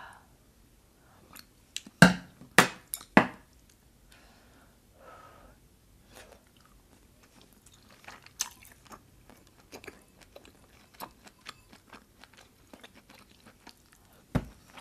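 Chewing and biting braised beef short ribs close to a microphone, with three loud sharp clicks about two to three seconds in and many small clicks throughout.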